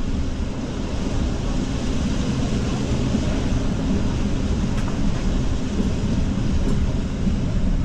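Steady running noise of a moving regional train, a continuous rumble heaviest in the low end, with a faint click about five seconds in.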